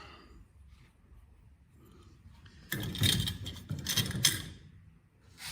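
Small metal carburetor parts being handled: a couple of seconds of clattering and scraping with a few sharp knocks, starting near the middle.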